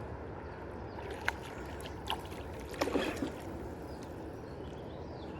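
Steady rush of flowing river water, with a few short, sharp sounds about one, two and three seconds in.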